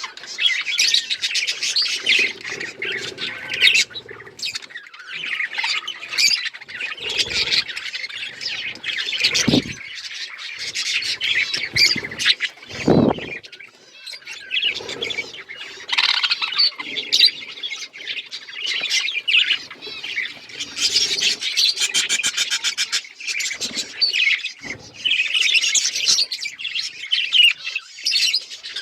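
A flock of budgerigars chirping and chattering without pause, a busy mix of warbles and occasional harsher squawks.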